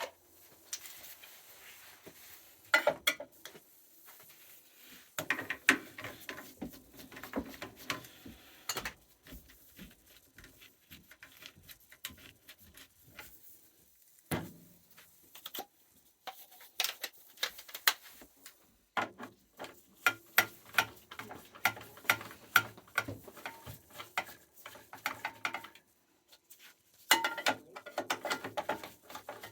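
Irregular clicks, taps and rattles of hand tools and small metal parts being handled while an oil boiler's control is unwired and swapped. A low steady hum joins in about two-thirds of the way through.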